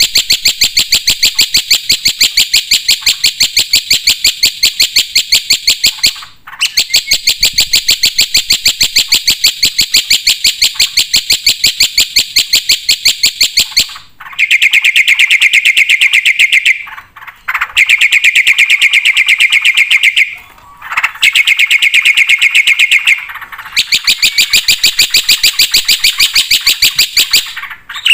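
Black-winged myna (jalak putih) singing in long runs of rapid, evenly repeated high chirps, broken by brief pauses. About halfway through, the phrases shift to a lower pitch.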